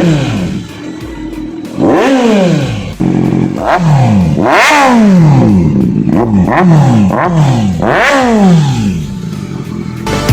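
Kawasaki Z900's 948cc inline-four through a full-system SC-Project exhaust, free-revving in a series of sharp throttle blips, each rising quickly and falling back to idle. It is loud.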